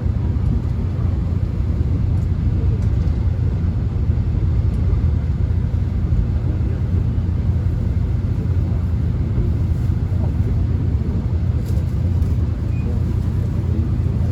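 Steady low rumble of a subway train running, heard from inside the carriage, with a few faint clicks about ten seconds in.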